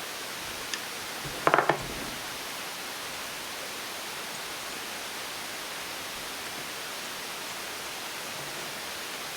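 A ratchet working a cylinder nut on a Suzuki DS125 engine makes a short run of sharp metallic clicks about one and a half seconds in, over a steady hiss.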